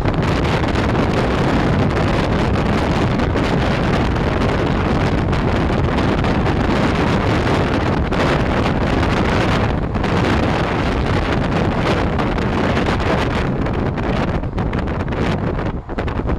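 Wind rushing and buffeting the microphone at the open door of an express passenger train running at speed, over the steady rumble of the coach's wheels on the track. Loud and steady, with a brief dip near the end.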